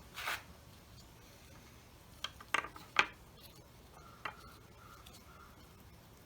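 Small items being handled on a bench while two-part epoxy is set out for mixing: a soft rub at the start, then a quick run of light clicks and taps two to three seconds in and one more about four seconds in.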